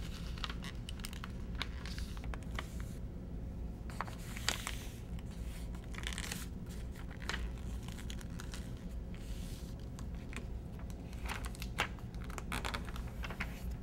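A sheet of paper being folded in half and creased by hand, with scattered crinkles and rustles of the paper.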